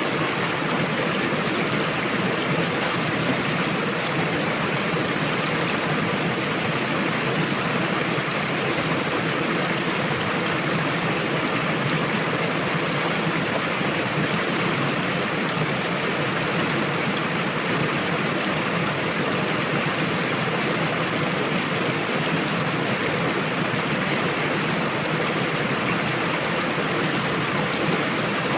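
Fast-flowing river rushing steadily, an even unbroken sound of water.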